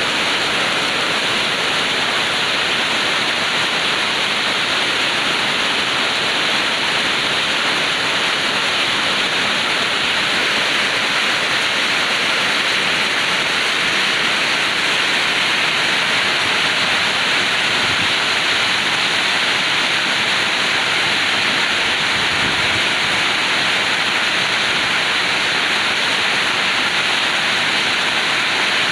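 Heavy rain pouring down without a break, a dense, even hiss.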